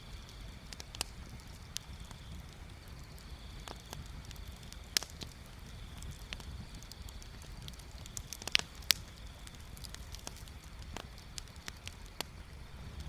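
Bonfire crackling: scattered sharp pops and snaps of burning wood over a low steady rumble, with a few louder pops about five seconds in and twice close together near nine seconds.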